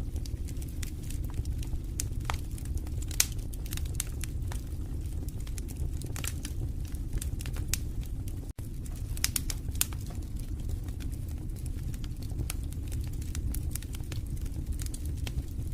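Wood fire in a fireplace crackling: frequent irregular sharp pops and snaps over a steady low rumble of the flames. The sound drops out for an instant about eight and a half seconds in.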